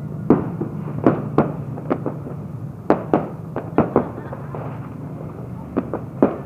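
Fireworks going off in an irregular series of sharp bangs, about a dozen, with a short lull just past the middle, over a steady low background hum.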